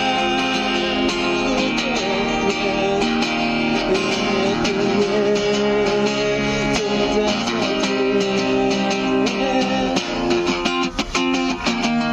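Guitar strummed in a steady rhythm during an instrumental break in a pop-rock song, with a sustained melody line held over the chords.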